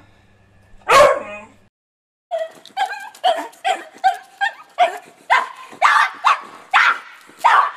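A beagle gives one loud bark about a second in. After a short silence a bulldog barks over and over in quick succession, about three barks a second.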